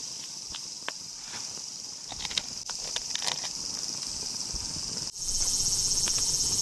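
Steady, high-pitched chorus of summer insects, with scattered light clicks and taps of handling over it. About five seconds in the chorus abruptly becomes louder and denser.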